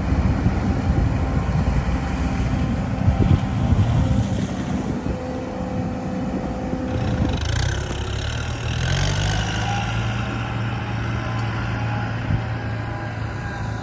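Heavy diesel earthmoving machinery running. About halfway in, one engine revs up and then holds a steady, higher note, with a brief hiss at the same time.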